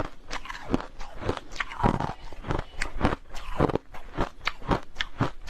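Hard, clear crushed ice being bitten and chewed close to the microphone: a fast, uneven run of sharp, crisp crunches, about three a second.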